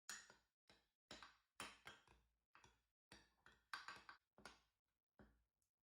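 A mixing utensil knocking and tapping against a mixing bowl while a dry flour-and-spice mixture is stirred: short, irregular taps, about two a second.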